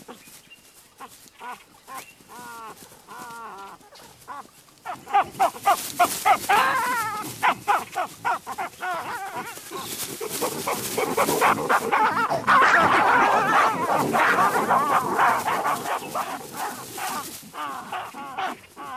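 Olive baboons screaming and barking during a fight: scattered calls at first, then a rapid, dense run of short calls from about five seconds in that is loudest in the middle and thins out near the end.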